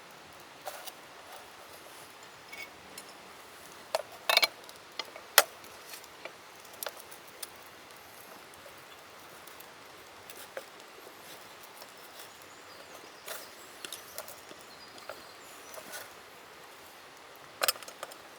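Camp cooking gear handled while a hot sandwich is made: scattered light clicks and knocks, the loudest a cluster about four to five seconds in and another near the end. Under them runs the steady rushing of a river.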